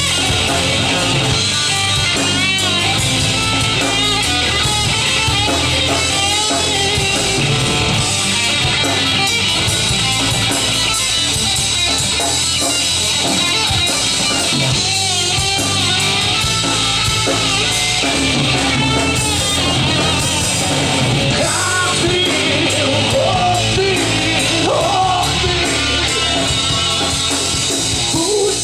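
Live rock band playing an instrumental break: electric guitars, bass and drum kit, with a wavering, bending melodic line over the top.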